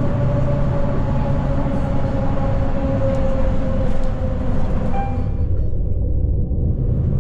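Steady ride noise inside a city bus: low engine and road rumble with a whine that slowly falls in pitch. The upper hiss fades out about two-thirds of the way through.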